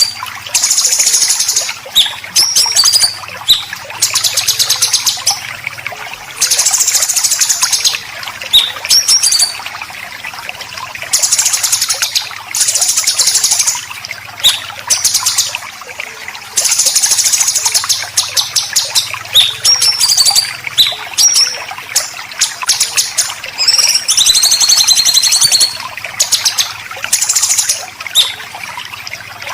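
Songbird 'besetan' calls: harsh, buzzy rasps about a second long, repeated every few seconds, between short whistled notes and chirps. A faint steady low hum runs underneath.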